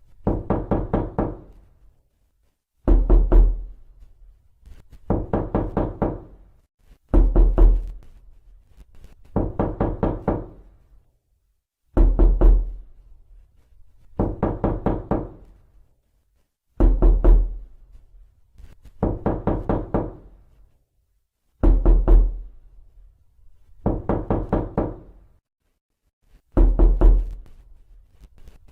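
Knocking on a door: rounds of several quick raps, about a dozen rounds, each a second or so long. A heavier round with a deep thump alternates with a lighter one, and the pattern repeats every couple of seconds with short pauses between.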